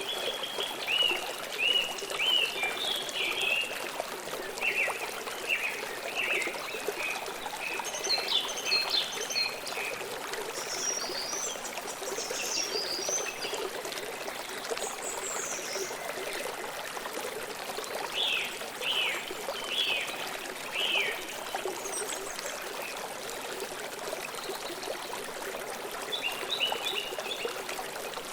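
Forest river flowing with a steady rush, while birds chirp in short bursts of calls over it every few seconds.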